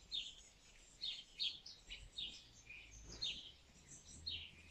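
A bird chirping: a string of short, high, falling chirps, about two a second, heard faintly.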